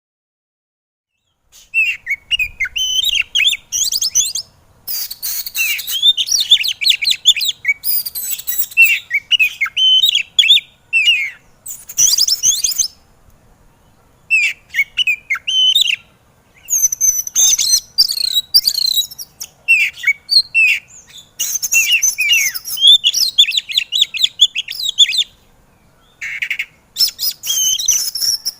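Oriental magpie-robin (kacer) singing a fired-up song: fast, varied, high warbling and chirping phrases in bursts of a few seconds with short pauses between them. It begins after about a second and a half of silence.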